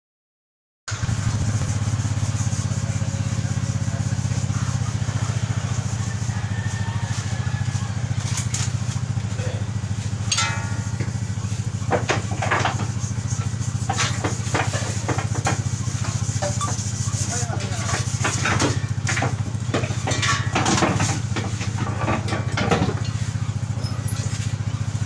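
An engine running at a steady idle, a low even hum that starts abruptly about a second in after a moment of dead silence. Short knocks and snatches of voice come over it in the second half.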